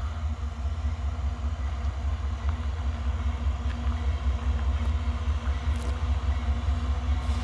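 Low, steady rumble of the diesel locomotives on an approaching CSX coal train, growing slightly louder toward the end.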